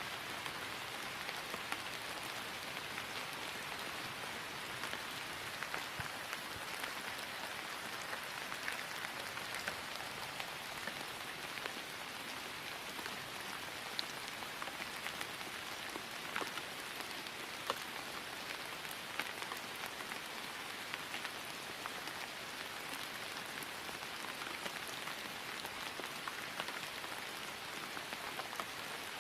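Steady rain falling on grass: an even patter with scattered sharper ticks of individual drops.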